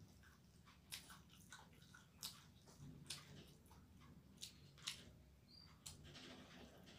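Faint, close-miked chewing of a mouthful of food, with scattered wet smacks and clicks of the mouth.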